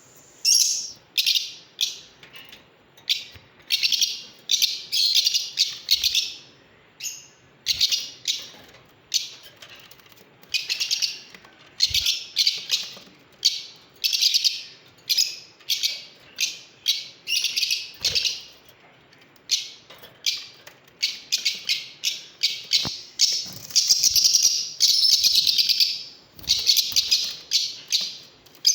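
Lovebirds chattering with rapid high-pitched chirps and shrill calls in repeated bursts of a second or two, with short pauses between.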